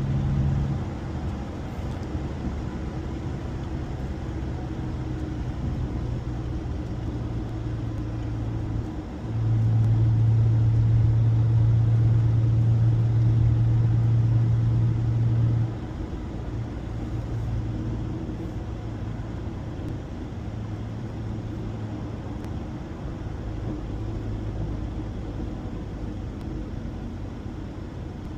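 A Honda car engine and road noise heard while driving, a steady low drone. It grows louder for about six seconds in the middle, then drops back to an even cruise.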